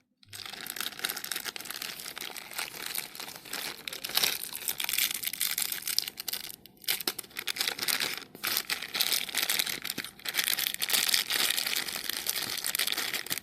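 Plastic packaging crinkling and rustling as it is handled, a dense crackle of small clicks with two brief pauses, about seven and eight and a half seconds in.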